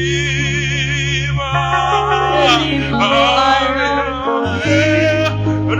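Gospel worship song: a singer holds long, wavering notes with heavy vibrato over sustained keyboard and bass chords that change every second or so.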